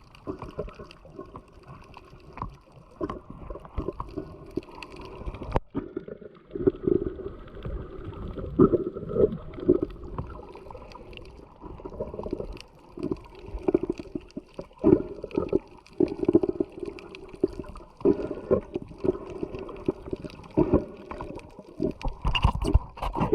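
Sea water lapping and sloshing in small waves, an uneven run of splashes and gurgles.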